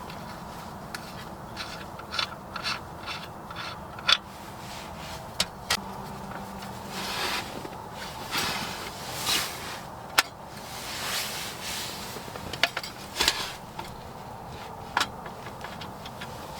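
Hands handling and unpacking small objects: rubbing, scraping and rustling, with a scatter of sharp clicks and taps.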